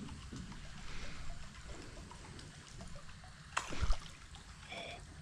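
Creek water trickling, with one sharp knock or splash about three and a half seconds in and a brief chirp near the end.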